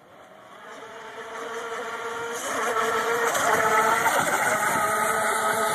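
Electric RC racing boat's motors whining at full speed, with a hiss of water spray. It grows louder over the first few seconds as the boat comes closer, is loudest about three to four seconds in, and eases off slightly near the end.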